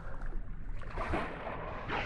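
Water sloshing and lapping around a kayak in a few short swishes, with wind rumbling on the microphone.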